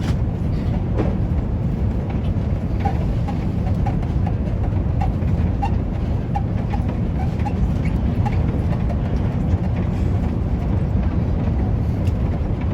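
Steady low rumble of an Airbus A350's cabin noise, the engines and rushing airflow heard from inside the passenger cabin. A scatter of faint short squeaks or clicks sounds through the middle.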